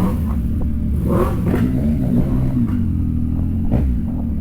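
Large motorcycle engine running at low revs, a steady low rumble.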